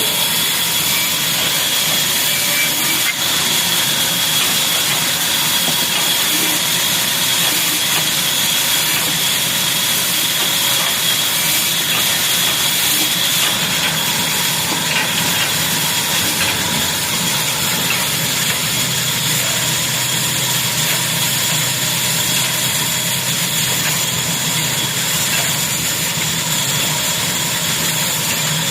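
Old single-cylinder 'black' diesel engine running steadily, with a constant high whine over the engine noise.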